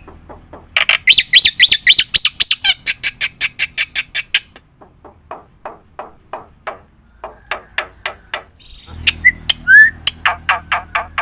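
Black-winged myna (jalak putih) calling in fast runs of harsh, repeated notes, about four or five a second. The notes grow quieter in the middle, then give way to a couple of short rising whistles, and another fast run follows near the end.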